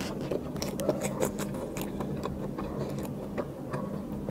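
Close-miked chewing of a mouthful of mutton biryani, meat and rice, with scattered wet clicks and smacks of the mouth over a faint steady low hum.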